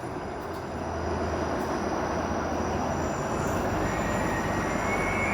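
A TTC 504 King streetcar running along its rails, growing gradually louder, with a faint high whine coming in about four seconds in.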